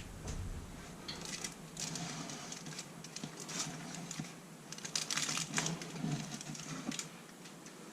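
Irregular light taps, clicks and rustles of cookware being handled, as a foil-lined baking tray is moved into the oven.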